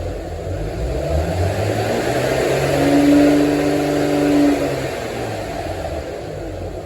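2001 Audi A6 Avant Quattro's engine being revved: it climbs from idle, holds a steady higher pitch for about two seconds, then drops back to idle.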